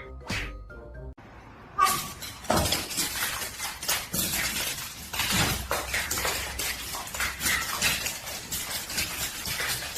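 A short burst of comic music with springy rising glides, which stops about a second in. Then a long run of busy clattering and rustling noise with many small sharp knocks.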